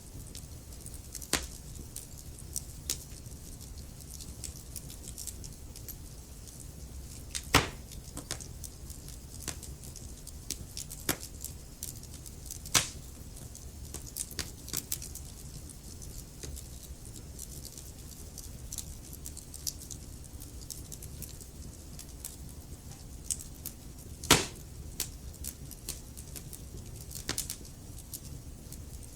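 Wood burning in a fireplace: a steady low rumble with scattered crackles and a few sharp pops, the loudest about 8, 13 and 24 seconds in.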